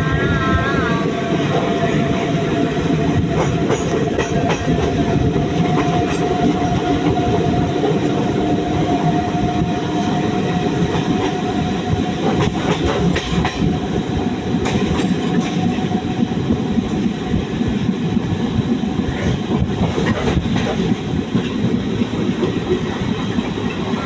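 Moving passenger train running on the rails, the wheels clattering over rail joints, with a steady high whine that fades out about two-thirds of the way through.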